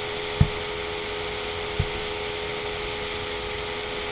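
Steady electrical hum and hiss of background noise, with two soft low thumps, the louder about half a second in and another just under two seconds in.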